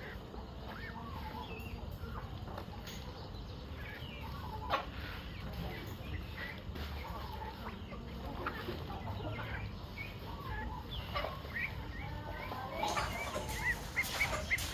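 Chickens clucking and calling in short, scattered calls, growing louder and busier near the end, with one sharp knock about a third of the way in.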